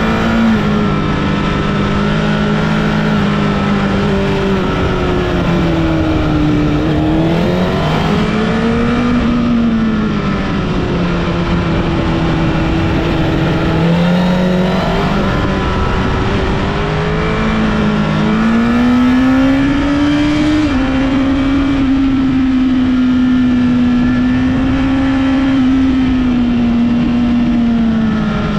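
Honda CBR1000RR Fireblade's inline-four engine running hard on a mountain road, the engine pitch repeatedly falling and climbing with throttle and gear changes, then holding nearly steady for the last several seconds, over a constant rush of riding noise.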